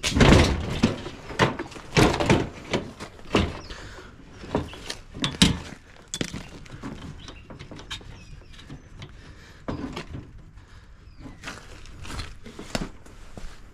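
Irregular knocks, clunks and clatter of a dishwasher's metal and plastic parts being worked loose by hand during teardown, loudest in the first couple of seconds, then sparser.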